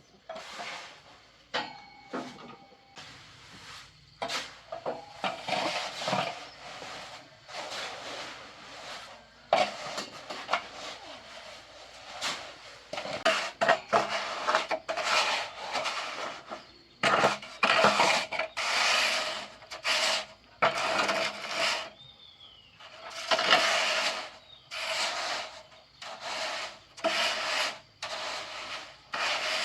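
Shovels scraping through loose material, repeated stroke after stroke, about one scrape a second, as a mix for the coop floor is scooped and turned.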